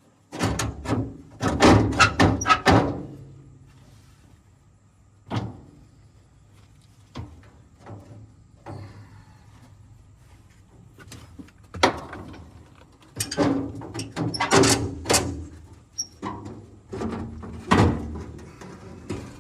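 Metal parts and tools clanking and knocking as they are handled, in quick clusters of sharp knocks near the start and again through the second half, with a single knock in between.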